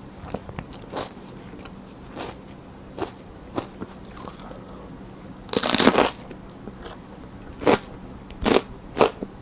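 Crisp raw mini sweet peppers being bitten and chewed: a loud crunching bite about five and a half seconds in, with scattered crunches of chewing before and after it.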